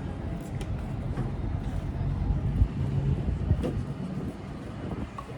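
A car engine running at low speed, a steady low rumble with a constant hum under it.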